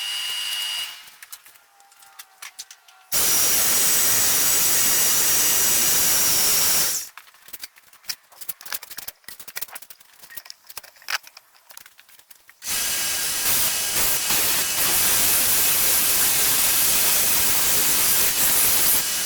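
Steel knife blade being rough-ground on a grinder: a brief burst at the start, then two long steady grinding passes of about four and six seconds, with a quieter gap of scattered clicks and light scraping between them.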